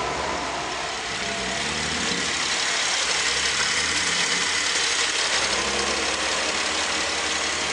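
Holden VE Commodore SV6's 3.6-litre LLT direct-injection V6 idling steadily with the bonnet open. The seller describes it as a good engine.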